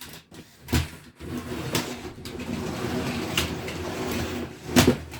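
Small electric motors of Lego combat robots whirring steadily, with several sharp plastic knocks as the robots hit each other, the loudest near the end.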